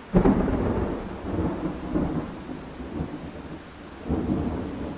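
Thunder rumbling over steady rain, starting with a sudden clap just after the start and rolling on in swells about two and four seconds in.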